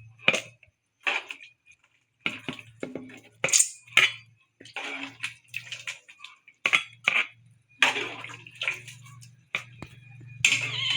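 A metal spoon or ladle clinks, knocks and scrapes irregularly against a pot and serving dish as wet jackfruit-and-coconut-milk curry is dished up, with small splashes. A cat meows near the end.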